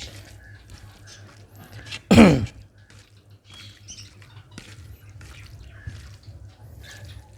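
Close-miked eating: wet chewing, lip smacks and small clicks of a person eating rice and mutton curry. About two seconds in comes one short, loud vocal sound that drops sharply in pitch, over a low steady hum.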